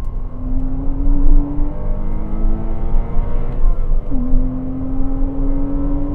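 Porsche Cayman 987's 2.7-litre flat-six pulling hard on track, its note climbing slowly in pitch, with a brief dip about four seconds in before it climbs again.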